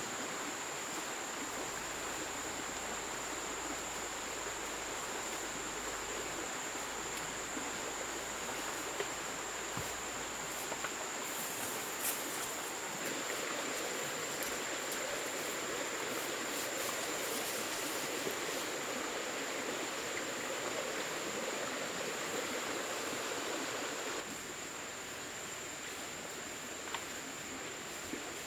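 Steady rainforest ambience: an insect trilling at one constant high pitch over a wash of running water, with a few small knocks.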